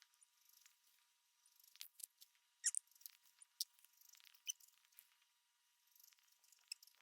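Near silence with faint, scattered small clicks and ticks, the loudest a little under three seconds in.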